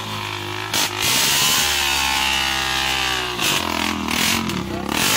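Dirt bike engine revving hard, held high for about two seconds from about a second in, then dropping back, with rougher engine sound before and after.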